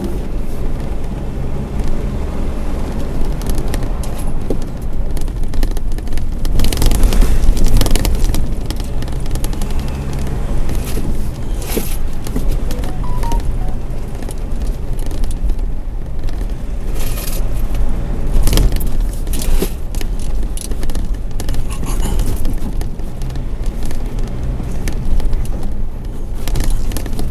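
A vehicle on the move: a loud, steady low rumble with frequent rattles and clicks throughout.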